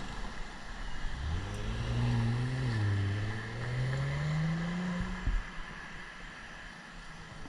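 A passing motor vehicle accelerating, its engine note rising steadily in pitch for about four seconds before it fades out, over steady road and wind noise.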